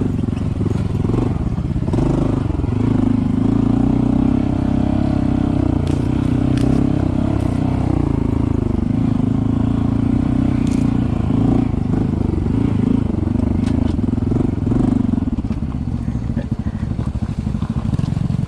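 Honda CT125's single-cylinder four-stroke engine running at steady, low revs as the bike is ridden slowly along a muddy trail, with a few light clicks and ticks along the way. It eases off slightly near the end.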